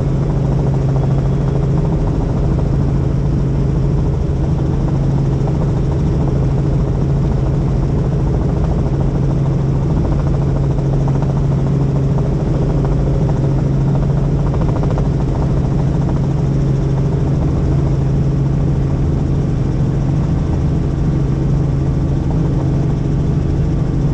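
Helicopter in flight: the steady drone of engine and rotor, with a strong low hum that holds level.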